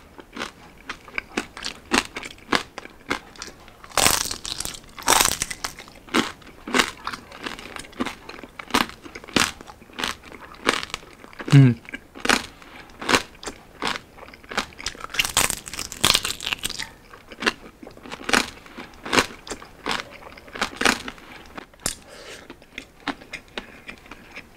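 Close-miked biting and chewing of crispy grilled pork belly (liempo): a steady run of wet clicks and crunches, with louder crunchy bites of the charred skin about four seconds in and again around fifteen seconds. A short hummed "mm" from the eater near the middle.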